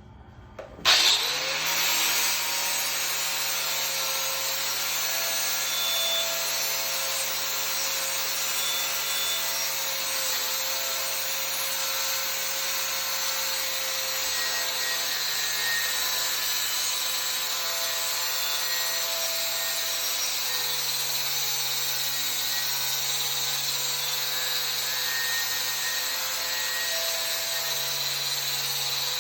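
Angle grinder starting up about a second in, its pitch rising briefly as it spins up, then grinding steadily at an even speed with light pressure along the outside edge of a pipe's weld bevel.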